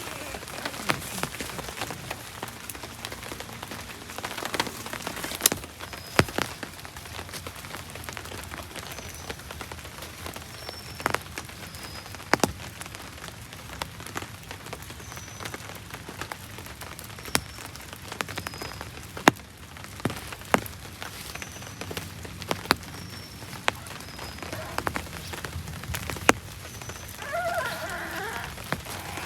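Steady heavy rain in tropical forest, with big single drops tapping sharply close by. A short high chirp from some small creature recurs every second or two.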